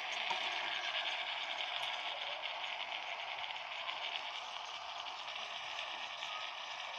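Food cooking in an electric kettle: pasta and masala giving off a steady, even sizzling hiss.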